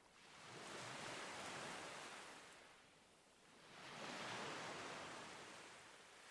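Ocean waves, soft: two swells of surf, each rising and then fading away over about three seconds, the second starting a little before halfway.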